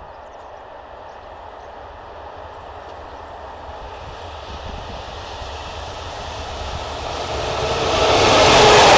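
An approaching train, its rumble and rushing wheel noise growing steadily louder and becoming loud near the end as it nears.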